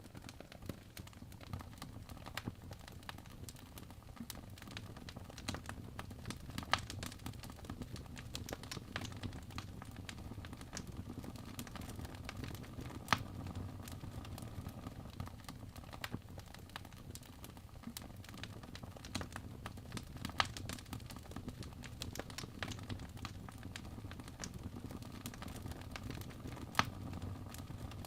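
Wood fire crackling in a fireplace: a soft low rumble of flames with scattered irregular pops and snaps, a few sharper ones standing out.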